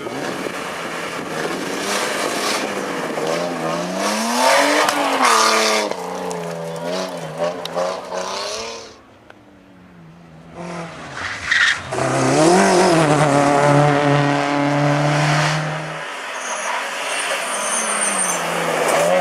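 Rally car engines revving hard, the pitch climbing and dropping with throttle and gear changes, over tyre and road noise. The sound cuts off abruptly about nine seconds in, and a second car comes in after, pulling up through the revs and holding a steady high note for a few seconds.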